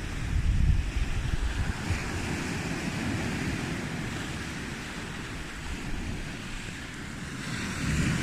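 Sea waves washing onto a beach, a continuous surf hiss with low rumble that swells at the start, eases off and builds again near the end. Some wind buffeting on the microphone.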